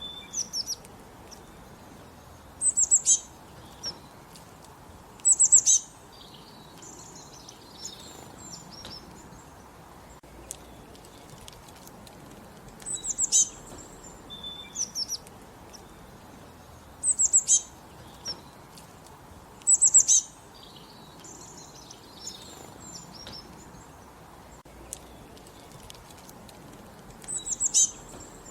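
Songbirds singing in the countryside: short, high-pitched phrases of quick repeated notes, about six of them a few seconds apart, with softer chirps in between, over a faint steady outdoor hiss.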